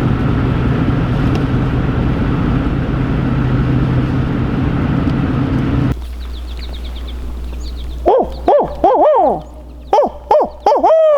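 Truck running until about six seconds in, when its noise drops away. Then two groups of loud owl hoots, the last note drawn out and falling: a hunter's owl locator call, sent out to make a turkey gobbler answer.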